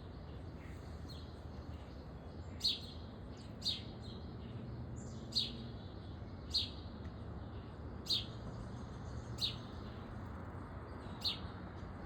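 A songbird giving short, sharp chip notes, about seven of them spaced a second or two apart, over a steady low background noise.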